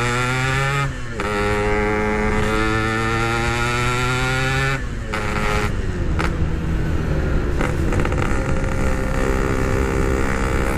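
Yamaha RX-King two-stroke single-cylinder motorcycle engine accelerating on the move: the note climbs, breaks briefly for a gear change about a second in and again near five seconds, then runs on rougher and steadier.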